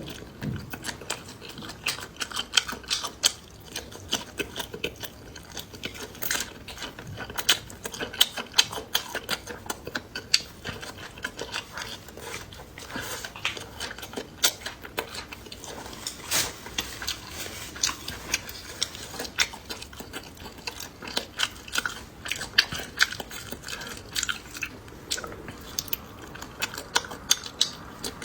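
Close-miked chewing and biting: a mouthful of food being chewed, with many irregular sharp clicks and smacks.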